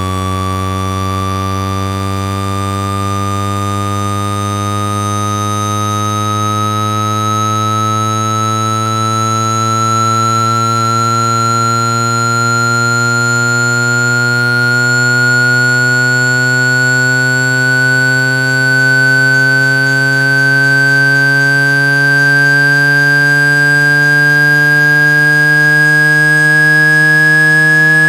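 Synthetic buzzing tone, rich in overtones, sliding slowly and steadily upward in pitch, with one bright high overtone standing out. It is a speaker-cleaning sweep, played to vibrate water and dust out of a phone's earpiece mesh.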